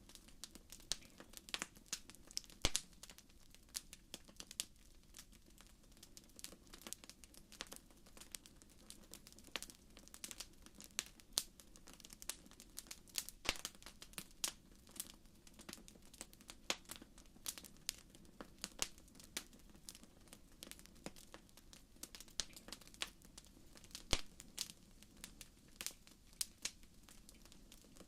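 Wood fire crackling in a fireplace: many sharp, irregular pops and snaps over a soft steady hiss.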